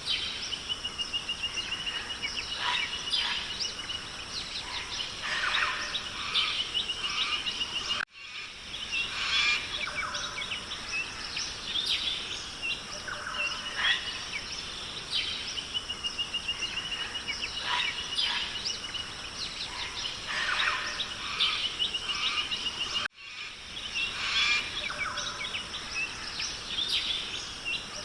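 Forest ambience of many birds chirping, trilling and whistling over a steady high hiss. The sound cuts out briefly twice.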